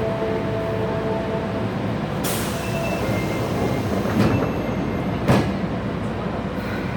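Osaka Metro 22 series train running, its Mitsubishi GTO-thyristor VVVF inverter giving a steady whine of several tones that fades out about two seconds in. A sudden hiss of noise follows, then two sharp knocks about a second apart over the rumble of the running gear.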